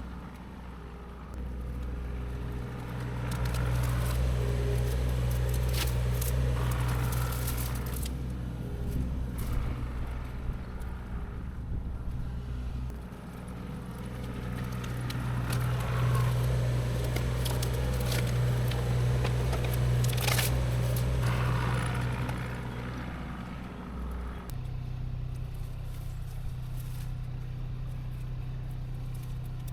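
Diesel engine of heavy land-clearing machinery running steadily, its pitch and load shifting about a third of the way in and again near the end, with brush and wood cracking and scraping.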